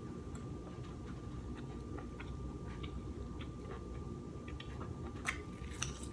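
Soft chewing and scattered small clicks as king crab legs are eaten, with a few sharper clicks about five and six seconds in, over a steady low hum.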